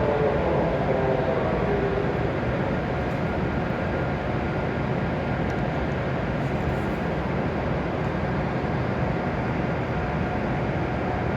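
Steady noise of a W7 series Hokuriku Shinkansen train at the station platform, with a faint tone falling in pitch in the first second or two.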